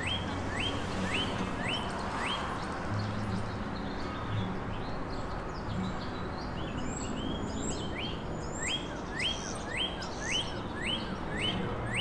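Songbirds singing: one bird repeats a series of short rising whistled notes, about two a second, in a run early on and another near the end, while other birds chirp higher in between, over a steady background hiss.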